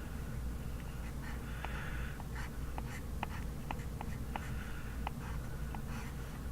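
Hand-writing on paper, kanji drill practice: scratching strokes of under a second each, with short sharp ticks between them, over a steady low room hum.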